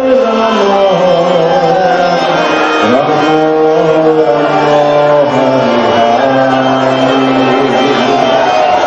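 Devotional kirtan: voices singing long held, gliding notes over instrumental accompaniment.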